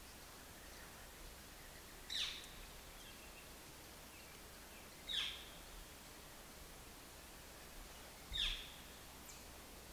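A bird calling three times, about three seconds apart: each call a short, high note that sweeps quickly downward.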